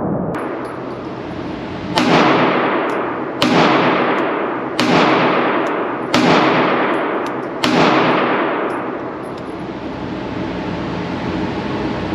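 Sig Sauer P365 9mm compact pistol fired five times in steady succession, about a second and a half apart. Each shot is loud and echoes away.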